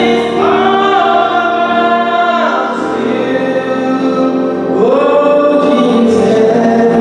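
Gospel choir singing with musical accompaniment, long held notes that change about half a second in and again near five seconds.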